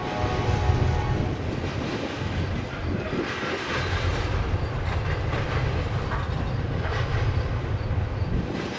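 Double-stack intermodal well cars of a freight train rolling past with a steady rumble of steel wheels on rail. Partway through, a run of sharp clacks comes as the wheels cross track joints.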